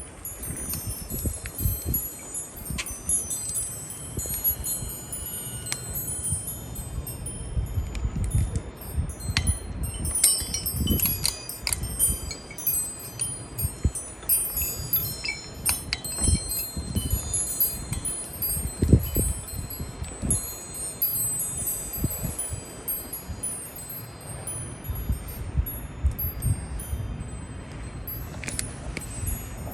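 Metal wind chime ringing irregularly in the wind, many high, overlapping tinkling tones, with low gusts of wind rumbling on the microphone.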